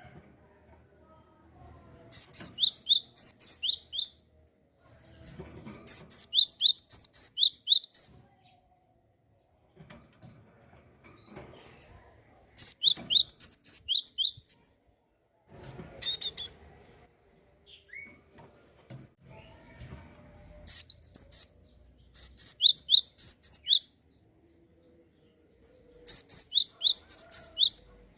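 A gelatik songbird singing in about seven bursts of rapid, high chirps, each note sweeping downward, with short pauses between the bursts.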